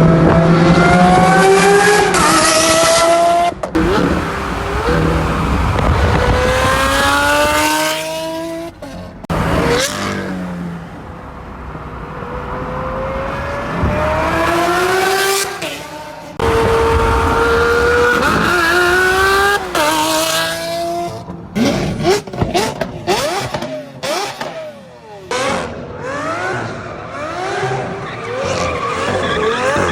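Lamborghini Aventador's V12 through an F1-style aftermarket exhaust, revving and accelerating hard in a string of abruptly cut clips. The pitch climbs steeply, then drops at each gear change, with a quick run of very short snippets past the middle.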